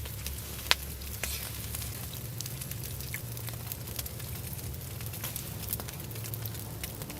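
Food sizzling and frying in a pan over a campfire: a steady hiss with scattered crackles and one sharp pop under a second in.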